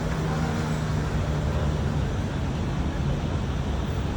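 Steady city traffic noise: a continuous rumble of road vehicles with a low engine hum and no single event standing out.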